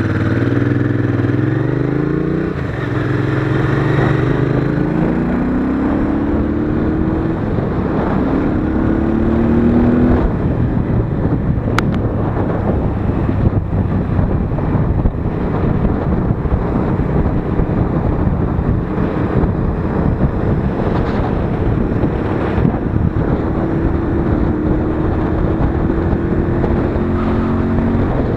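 Royal Enfield Interceptor 650's parallel-twin engine accelerating away from a standstill, its pitch rising through the gears with a gear change about two and a half seconds in and another about ten seconds in. After that it runs at a steadier pace with wind noise on the microphone, climbing slowly again near the end.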